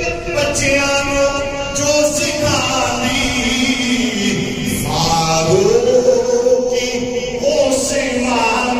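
Male chanting of a Punjabi devotional salam, sung in long, drawn-out melodic lines that bend slowly in pitch.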